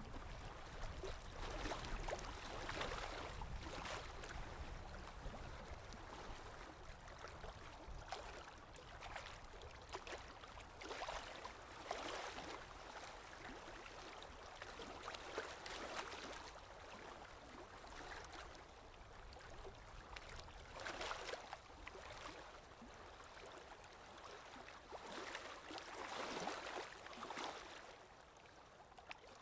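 Water running and sloshing, a continuous rushing that swells and eases irregularly every second or two.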